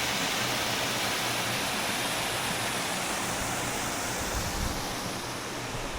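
Steady rush of a creek cascading over rock, a continuous even hiss, with a few soft low thumps about four and a half seconds in.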